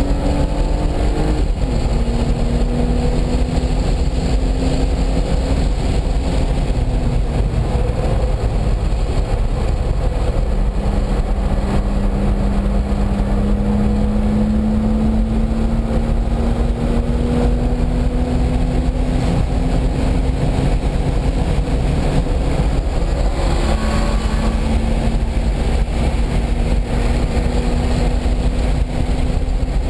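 Car engine pulling hard around a race track, under a constant low rumble of wind and road noise. Its note climbs slowly and drops back about four times, as with gear changes or lifting for corners.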